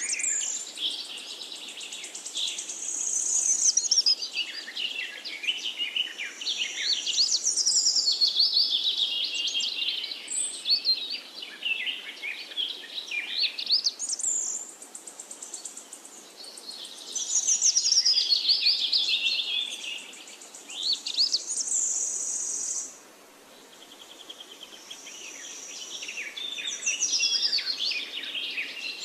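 Several forest songbirds singing at once, overlapping whistled phrases and rapid trills, with a short lull about 23 seconds in.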